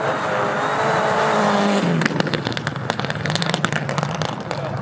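Mitsubishi Lancer Evolution rally car's turbocharged four-cylinder engine revving hard, its pitch climbing and then falling about two seconds in. A rapid run of sharp pops and crackles from the exhaust follows.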